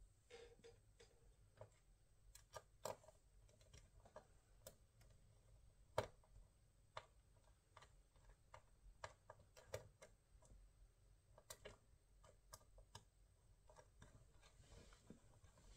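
Faint, irregular small clicks and taps of hard objects being handled, with one sharper tap about six seconds in.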